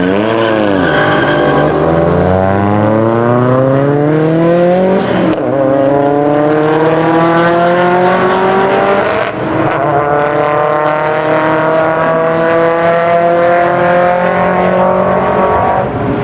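Modified Nissan Silvia's engine accelerating hard, revs climbing steadily, with a short drop in revs about five seconds in at a gear change before climbing again.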